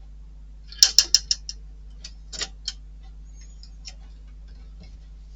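Small model-kit parts and tools clicking and tapping as they are handled and fitted: a quick run of about half a dozen sharp clicks about a second in, then a few scattered single clicks.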